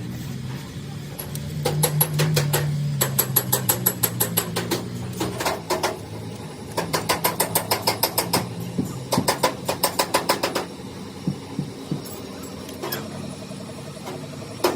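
Rapid, evenly spaced metal strikes, about six a second, in bursts lasting a few seconds each, over a steady low machine hum.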